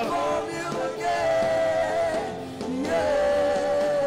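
Gospel worship music: a voice holds two long, wavering sung notes, one from about a second in and another near the end, over steady instrumental accompaniment.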